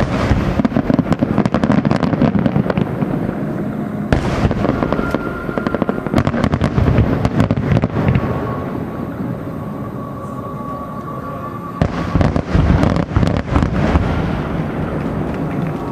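Aerial fireworks barrage: dense, rapid crackling with booming shell bursts, and fresh heavy volleys starting about four seconds in and again near twelve seconds.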